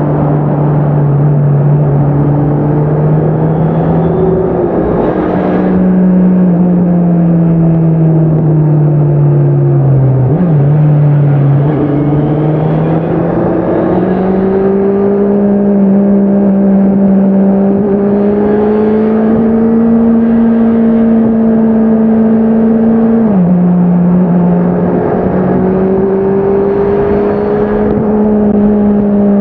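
Honda CBR650R inline-four engine and exhaust running under way, its pitch climbing slowly with throttle. About a third of the way in and again near the end the pitch drops suddenly, typical of gear changes.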